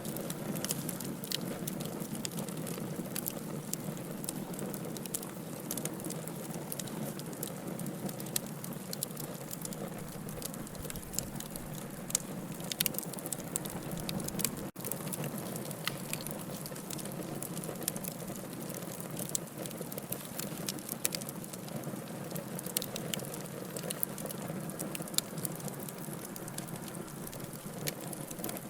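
Wood fire burning in a fireplace, a steady hiss with frequent sharp crackles and pops, and a momentary dropout about halfway through.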